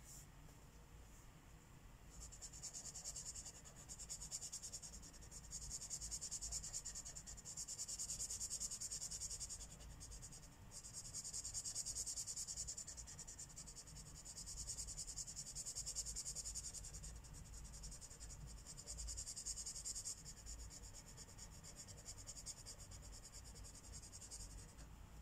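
Felt-tip marker rubbing on paper while coloring in, a soft hiss in stretches of a few seconds with brief pauses between them.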